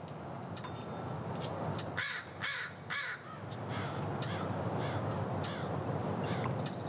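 Bird calling outdoors: three loud calls about half a second apart some two seconds in, then a string of fainter calls, over a steady low background rumble.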